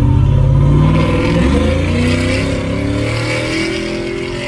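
Cammed 5.3-litre LS V8 truck with a Carven R-series muffler accelerating from a stop. The engine pitch climbs, drops at a gear change about a second and a half in, then climbs again. The driver blames a slipping 4L60 automatic transmission.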